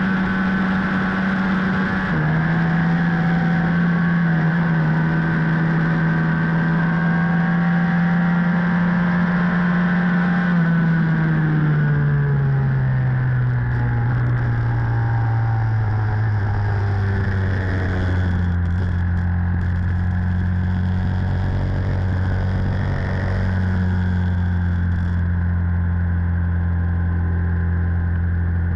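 Onboard sound of a flat-track racing motorcycle's engine at speed on a dirt mile, with wind rush. The engine note falls in a long downward glide through the middle as the rider rolls off and slows, then settles into a lower, steady note.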